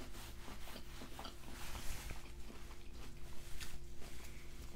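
Soft chewing of a mouthful of pho, with small irregular clicks.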